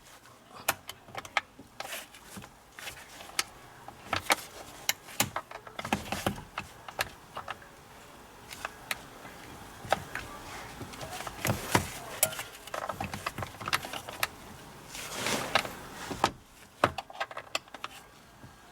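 Irregular small metallic clicks, taps and rattles of an ignition lock cylinder and its key being worked in a steering column, as the cylinder is pushed and pulled and will not come out. A longer scraping rustle comes about fifteen seconds in.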